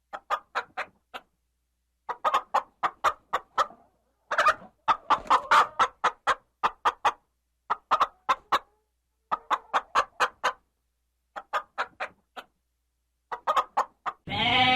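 Chicken clucking in quick runs of short, sharp clucks, several runs with pauses between. A long bleat starts right at the end.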